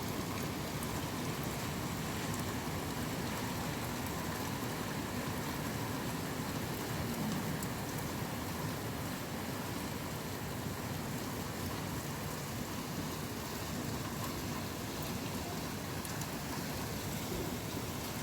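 Steady rain falling in a typhoon, an even hiss that keeps up without a break.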